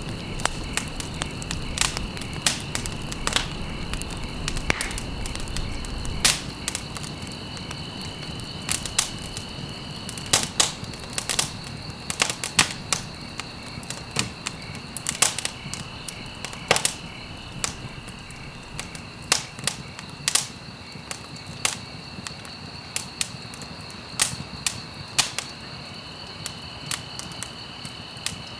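Wood fire burning in a fireplace, crackling with irregular sharp pops and snaps, some in quick clusters. A steady high-pitched tone sits under the crackle, and a low rumble fades away about six seconds in.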